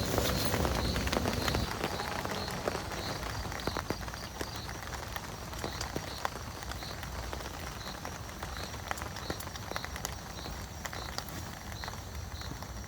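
Steady rain falling, with individual drops ticking sharply on nearby surfaces; the rain eases and grows quieter about two seconds in.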